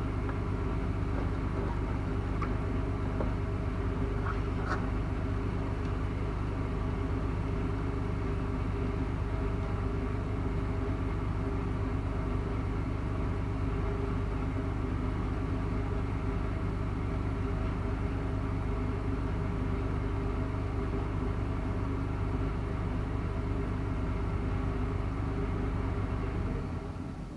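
GM 3.8L V6 engine of a 2005 Pontiac Grand Prix idling steadily, then shut off near the end.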